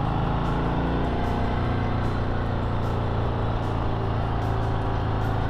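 Harley-Davidson Sport Glide's 107 cubic inch Milwaukee-Eight V-twin running steadily, heard through a helmet-mounted microphone.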